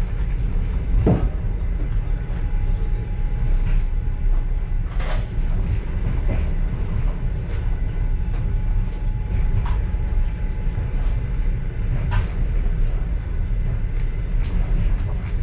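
Passenger railway car running on the track, heard from inside the car: a steady low rumble with scattered clicks and rattles.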